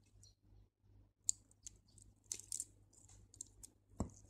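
Faint, scattered clicks of small beads knocking together and against the work surface as a thread is passed through them by hand, with a duller knock near the end.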